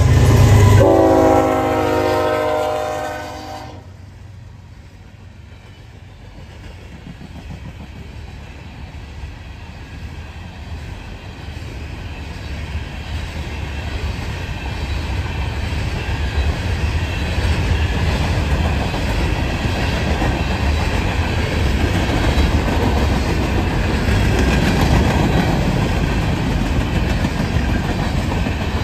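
Freight locomotive air horn sounds one chord for about three seconds over the diesel's low rumble, then cuts off. The empty rock train's cars follow, rolling by with a steady rumble and wheel clatter that grows gradually louder.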